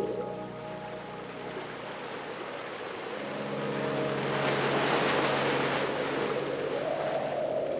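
Ocean surf: a wave washes in, swelling to a peak about halfway through and easing off again, over a steady low hum of held tones.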